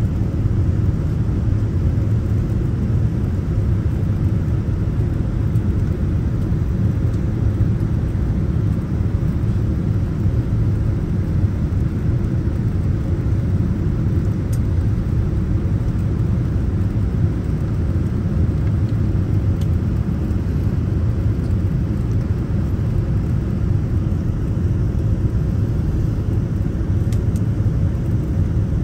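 Airliner cabin noise: a steady low rumble of the jet engines and rushing air heard from inside the passenger cabin as the plane comes in to land.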